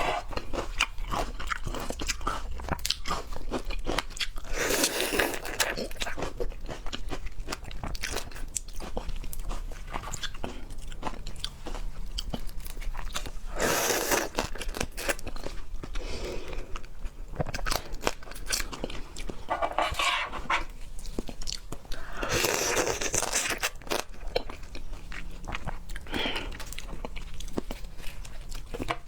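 A person chewing and biting raw seafood, with dense small wet clicks and crunches, and louder bursts of mouth noise about five times.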